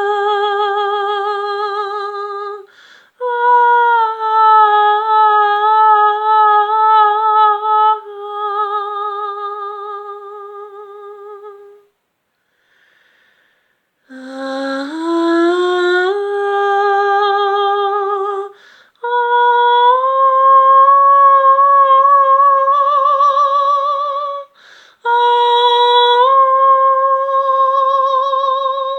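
A woman's voice humming a slow melody of long held notes with vibrato, broken by short breaths, with a pause of about two seconds near the middle.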